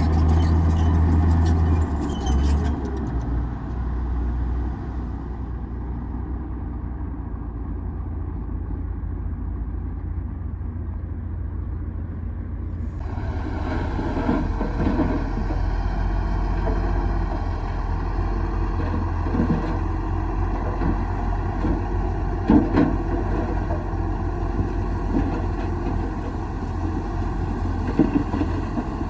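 Komatsu D58E bulldozer's diesel engine running steadily with a low drone. Midway through, a brighter, noisier layer joins it, and a couple of sharp knocks come near the end.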